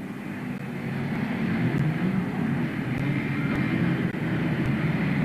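Engines of a pack of banger-racing cars running around the oval. Several engine notes overlap and rise and fall.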